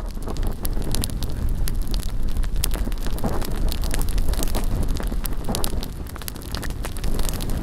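Bonfire burning, with a dense crackle of popping wood over a strong low rumble of wind on the microphone.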